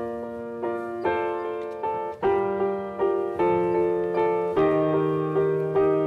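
Piano playing a slow piece in three-time, notes and chords struck at a steady pace of about two a second over held bass notes.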